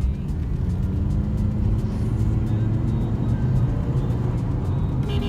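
Tenth-generation Honda Civic driving, a steady low engine and road rumble.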